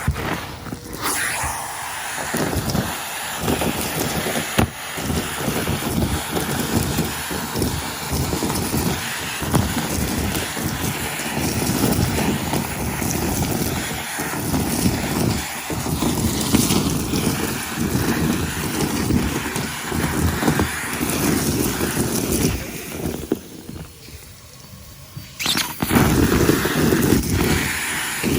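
Henry cylinder vacuum cleaner running, sucking up scattered debris with an uneven, crackly rattle. It drops quieter for about two seconds near the end, then comes back up.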